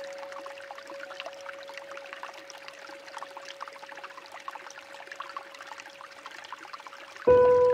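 Water trickling, with a soft held tone in the background music slowly fading. Near the end a new, louder musical note comes in suddenly.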